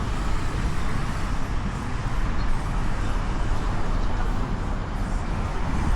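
Steady road traffic noise: a continuous rumble of passing vehicles.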